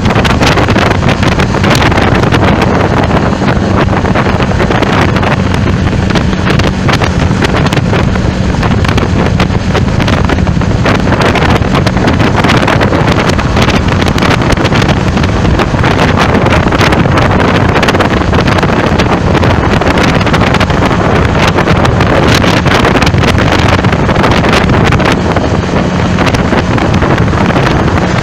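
Loud wind buffeting the microphone in irregular gusts over a steady low vehicle drone, as when recording in moving traffic.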